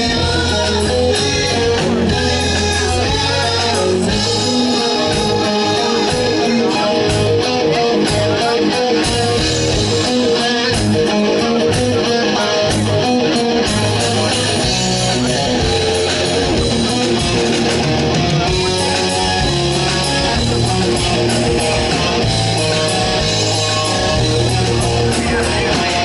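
Live heavy metal band playing an instrumental passage, with electric guitar to the fore over bass and drums.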